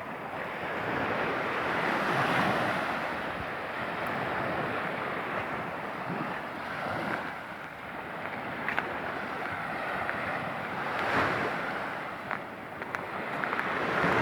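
Sea waves washing onto the shore, swelling and falling back every few seconds, with wind rumbling on the microphone.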